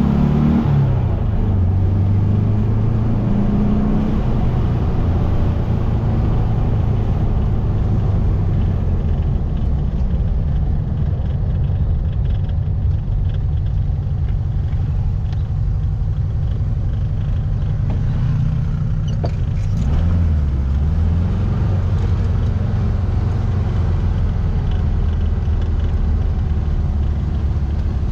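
1700cc air-cooled flat-four engine of a VW Baja Bug running under way at a steady pitch. The engine note dips and climbs again right at the start and about 20 seconds in.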